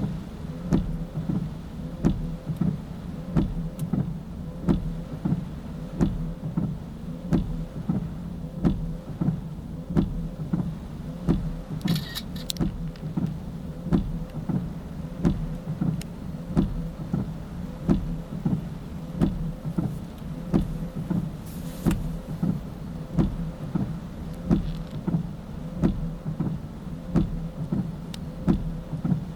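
A vehicle running, with a steady low hum and a sharp, even click or knock about every 0.7 seconds. A short hiss comes about twelve seconds in and again about twenty-two seconds in.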